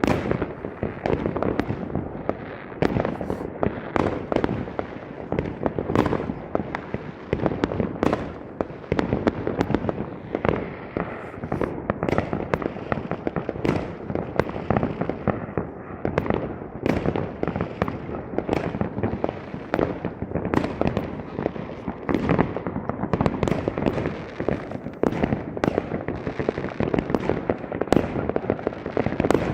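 Fireworks going off in a dense, continuous barrage: many sharp bangs and crackling reports overlapping, several a second.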